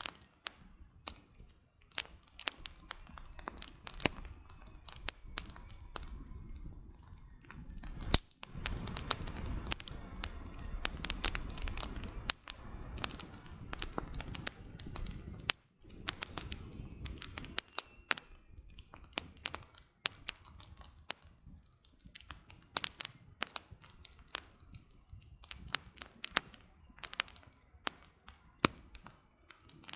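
Campfire burning, the firewood crackling and popping in irregular sharp snaps. A low rushing noise runs under the snaps in the middle stretch.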